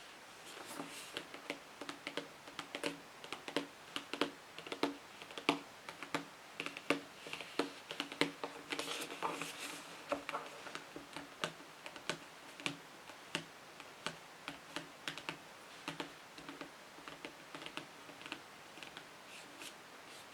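Fingernails tapping quickly and irregularly on a book, several taps a second, with a short burst of scratching about nine seconds in.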